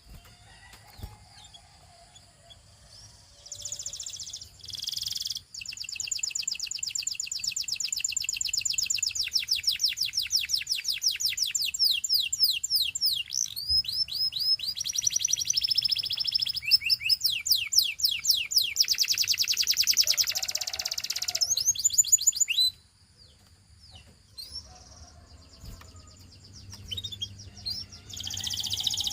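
Canary singing: a long song of fast, rapidly repeated high trills that begins a few seconds in and runs for about twenty seconds, changing trill speed several times. It stops abruptly and is followed by a few faint chirps.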